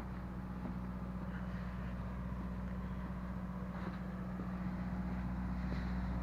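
An engine running steadily at low speed, slowly getting a little louder, with a few faint ticks over it.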